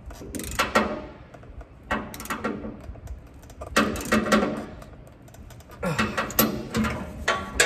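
Metal hand tools clinking and clattering in four short bursts, a wrench being worked and handled against metal.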